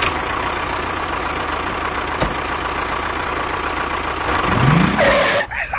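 Engine running steadily, with a short rising tone about four and a half seconds in.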